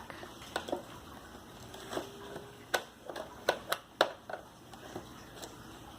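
Scattered soft clicks and crinkles of a doll's cardboard-and-plastic box being cut and pried open, about a dozen irregular snaps with quiet handling noise between them.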